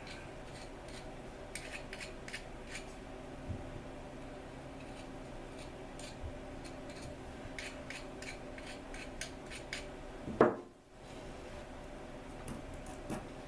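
Scattered light metallic clicks and scrapes from valve-lapping work on a cylinder head, with one short, louder knock about ten seconds in.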